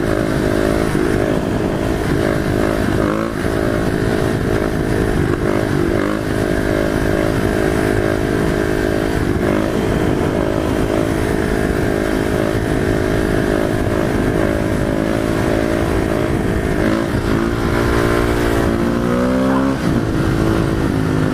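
Supermoto-style motorcycle engine running under way, holding a steady pitch, then revving up about three-quarters of the way through before easing off. Wind rumbles on the microphone underneath.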